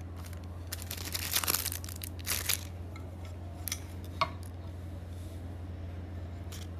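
Crinkling, rustling handling noise in two spells, followed by a few sharp clicks, over a steady low hum.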